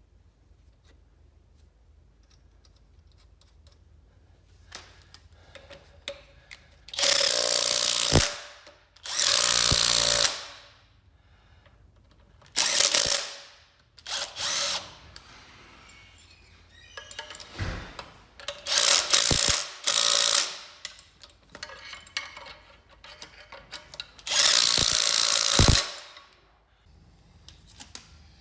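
Power tool running in about seven bursts of a second or so, with sharp clicks between them, driving the flywheel bolts home on the rebuilt engine.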